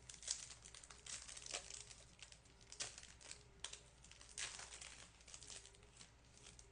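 Trading cards being handled and slid through a stack: faint, irregular rustling with light clicks and crinkles.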